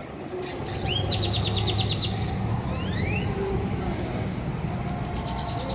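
A bird calling overhead: a rising whistle, then a quick rattling trill about a second in, two more rising whistles near the middle, and a held high note near the end. Beneath it runs a constant low rumble of traffic and crowd murmur.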